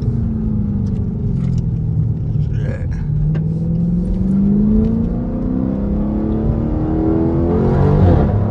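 Dodge Charger 392's 6.4-litre HEMI V8 under way: the engine note falls for about three seconds, then climbs twice as it accelerates, with a short dip between the two climbs. A few sharp pops come from the exhaust, which has a pop tune.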